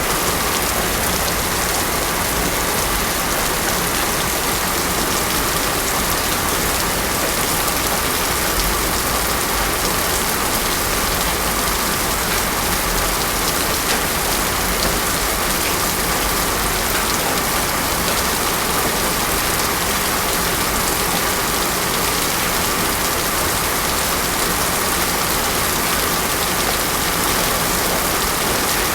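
Heavy rain falling steadily on a paved road, a dense, even hiss that does not let up.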